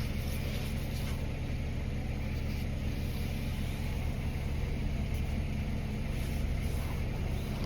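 A steady low mechanical hum with a constant pitch that holds unchanged throughout.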